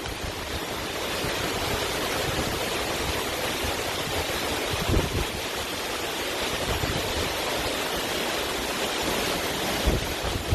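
Steady rushing noise of storm wind and driving rain, with a couple of brief low bumps about halfway through and near the end.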